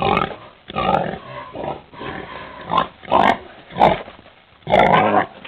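Domestic pig grunting and oinking in a string of short, rough grunts.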